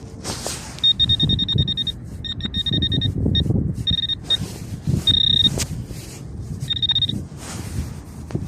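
A metal-detecting pinpointer probe giving a high electronic alarm tone in rapid pulsing runs, some short and one steady, as it passes over a metal target in the dug soil. Low rumbling wind noise runs underneath.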